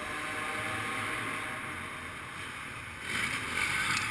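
Motocross bike engine running at a distance in a large indoor hall, an echoing drone that swells louder about three seconds in.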